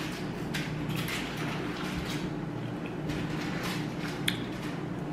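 A person chewing a bite of cheesy pizza with a crusty bottom, with a scatter of short wet clicks and smacks, one sharper near the end, over a steady low hum.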